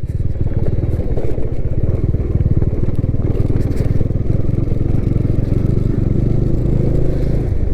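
Motorcycle engine running steadily while the bike is ridden, its fast, even firing pulses low and dense, with a rushing noise over it.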